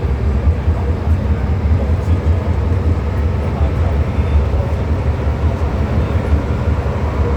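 Hong Kong MTR M-Train electric multiple unit running between stations, heard from on board: a steady low rumble of the wheels and running gear on the track.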